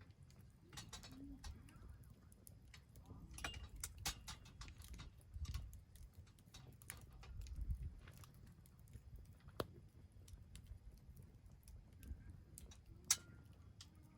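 Wood campfire crackling, with irregular sharp pops and snaps, a few louder ones, over a low rumble.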